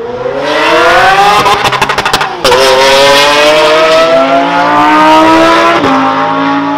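Supercar engine at full throttle on a drag run, its note climbing steadily and dropping sharply at upshifts about two and a half and six seconds in, with a rapid stuttering crackle just before the first shift.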